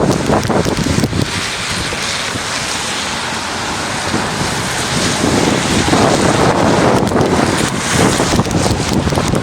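Gale-force wind buffeting the microphone over a steady rushing hiss, easing in the middle and gusting again from about six seconds in.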